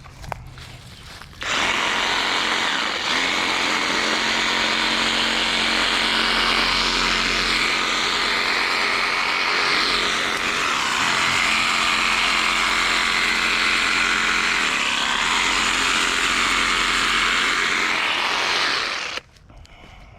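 Skil cordless reciprocating saw running under load as it cuts through tree branches. It starts about a second and a half in, its pitch dips and rises a few times as the blade bites, and it stops abruptly near the end.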